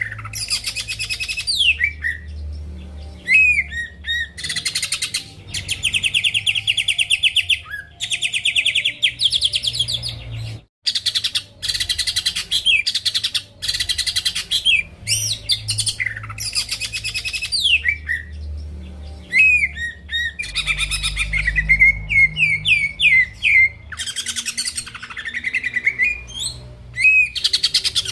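Green leafbird (cucak ijo) singing loudly and almost without pause: fast, buzzy trills alternating with sharp down-sweeping and up-sweeping whistles, with a brief break about eleven seconds in.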